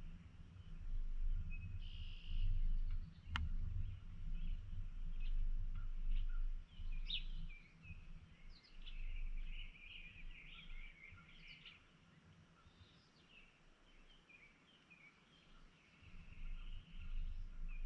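Small birds chirping in short bursts, busiest in the middle, over a low rumble. One sharp click comes about three seconds in.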